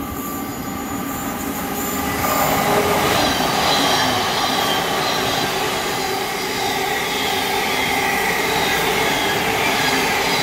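Thameslink electric multiple unit passing close by at speed: a steady rush of wheels on rail, growing louder about two seconds in, with high whines that fall in pitch as it goes by.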